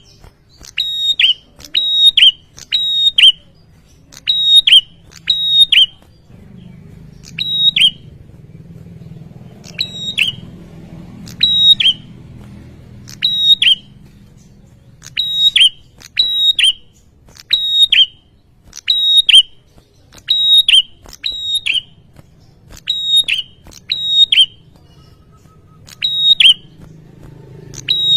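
Prinia (prenjak) calling: sharp, high, clipped notes repeated in pairs and short runs about once or twice a second, with brief pauses between runs. A faint low hum lies underneath.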